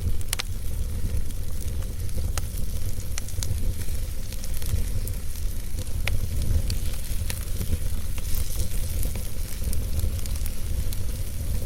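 Wood fire burning in a fireplace: scattered sharp crackles and pops from the logs, a strong pop just after the start, over a steady low rumble of the flames.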